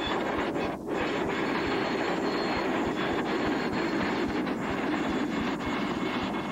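Passenger train rolling past close by: steel wheels running on the rails with a steady rumble, clicking over the rail joints.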